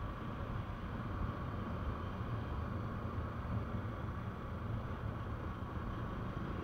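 Steady rumble of a vehicle on the move: road and engine noise with some wind, unchanging throughout.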